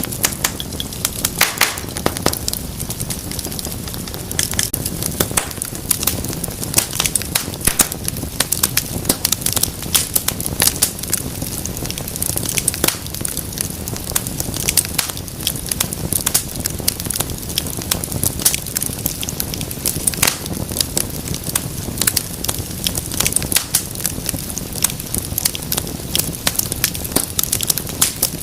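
Wood fire crackling steadily, with many sharp pops and snaps over a low, steady rumble of the flames.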